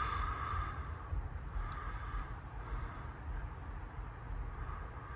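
Insects chirring steadily in a continuous high tone, over a low background rumble, with a faint click or two.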